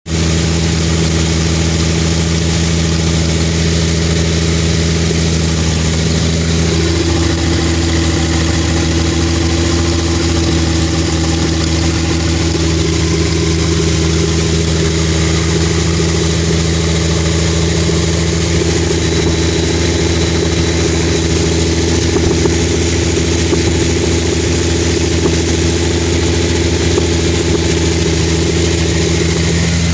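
Datsun 260Z's inline-six engine idling steadily and loud through an exhaust with a gaping rusted hole. The owner suspects a misfire or rough idle after the engine froze.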